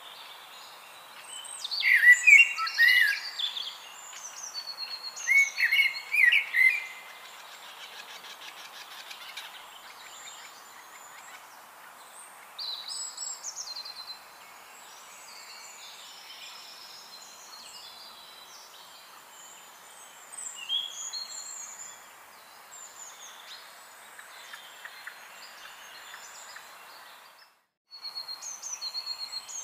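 Several birds singing and chirping over a steady outdoor hiss, loudest in two bursts of song a couple of seconds in and around six seconds in. The sound cuts out for a moment near the end.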